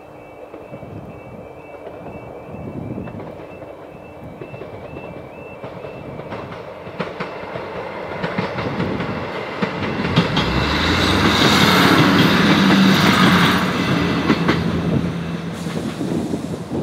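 Level crossing alarm warbling about twice a second for the first six seconds, then a diesel multiple unit, likely a British Rail Class 158, passes over the crossing. A rising rumble comes with wheel clicks over the rail joints and the hum of its diesel engines. It is loudest a little past the middle and easing off near the end.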